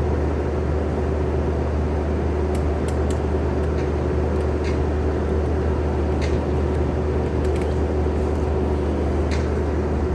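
Engine running steadily at a constant speed, with a few faint light clicks scattered through it.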